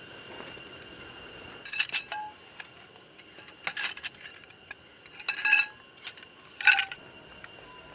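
Metal camp cookware and utensils clinking and clattering against each other in four short bursts, the third and fourth loudest, with brief metallic ringing after them.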